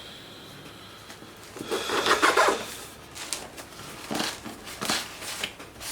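Cardboard packaging and polystyrene packing peanuts rustling and scraping as a boxed 3D printer is worked out of its box. After a quiet second or so comes one long rustle, then several shorter scrapes.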